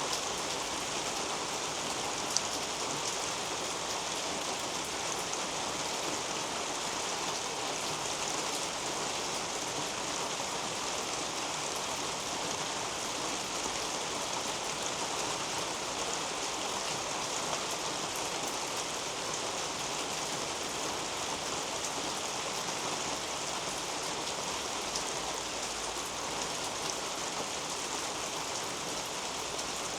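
Steady rain falling on a garden's leafy canopy, an even hiss with the occasional individual drop ticking through.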